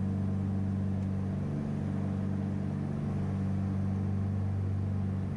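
Twin Cessna 421B's two geared, turbocharged piston engines and propellers droning steadily in a climb, a constant low hum with no change in pitch.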